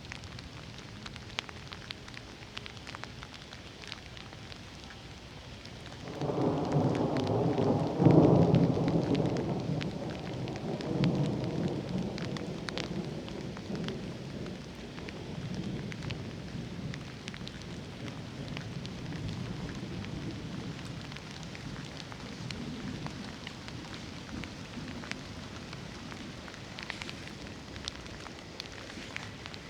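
Steady rain with scattered drop clicks. About six seconds in, a thunderclap breaks out, is loudest about two seconds later, then rumbles away over the next ten seconds or so.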